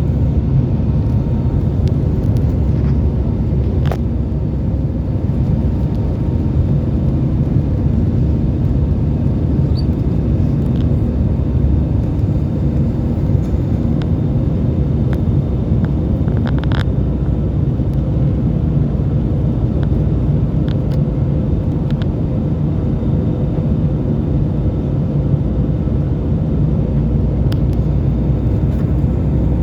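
Airbus A320 engines and airflow making a steady low rumble with a faint whine, as heard inside the cabin. A few faint clicks come through, around four and seventeen seconds in.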